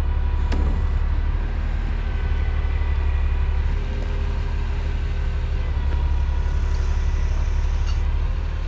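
Crane truck's engine running steadily under load with a deep, even drone while the boom swings a load, faint steady whine of the hydraulics above it.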